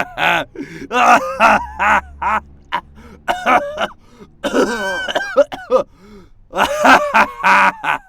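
A voice making wordless grunts, groans and throat noises in quick bursts, one after another.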